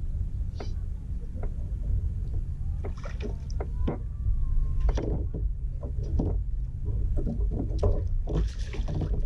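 Scattered knocks, clicks and handling noises on a fishing kayak, over a steady low rumble.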